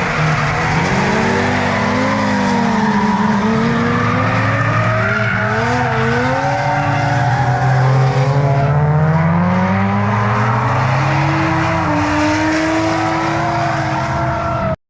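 Several drift cars running together in a drift train: their engines overlap, revving up and down, with tyre squeal underneath. The sound cuts out for an instant near the end.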